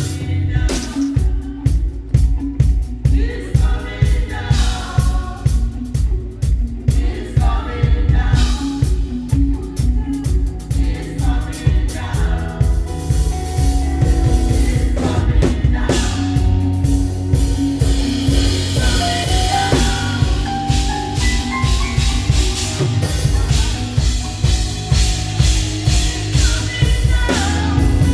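Live praise band playing with a drum kit keeping a steady driving beat under bass and singing voices.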